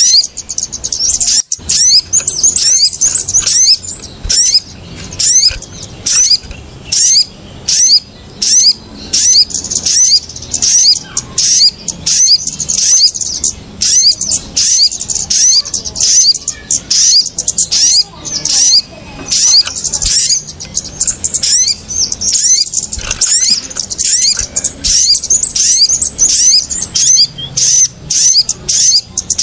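Bird-trapping lure recording of small birds calling excitedly, kemade and sogon (sogok ontong) calls mixed together: dense, rapid, high chirps in quick bursts, one after another without a break. This agitated chatter is the kind used to draw small birds down to bird-lime sticks.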